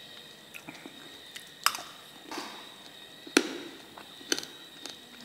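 Close-up eating sounds: someone chewing and biting into crunchy stir-fried frog, giving a few sharp clicks and crunches, the loudest about a third and two-thirds of the way through. A faint steady high whine runs underneath.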